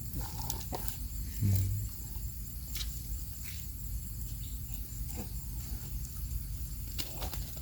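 Outdoor island ambience: insects chirring steadily over a low rumble, with scattered small clicks and rustles and a short low hum about a second and a half in.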